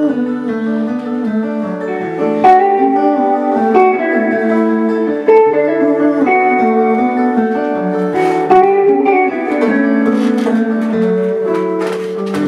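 Guitar playing the instrumental ending of a song without singing, held notes and chords changing every second or so.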